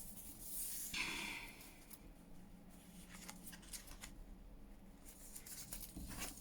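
Faint handling of washi tape and paper, with a short scratchy rasp in the first second, then light scattered rustling.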